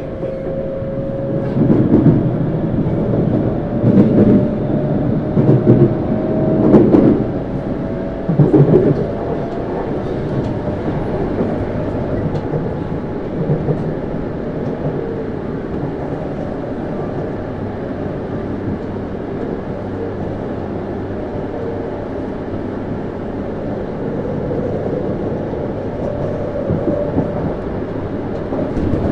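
Interior running sound of a Tokyu Series 9000 electric train, with Hitachi GTO-VVVF traction, heard from inside a motor car: a continuous rumble of wheels on rail. A faint whine rises slowly in pitch over the first several seconds, alongside a run of heavy thumps about every second and a half. After that the running noise goes on evenly.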